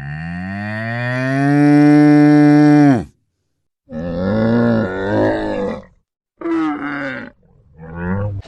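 Cow mooing: one long, loud call that rises in pitch and then holds before ending about three seconds in, followed by three shorter animal calls.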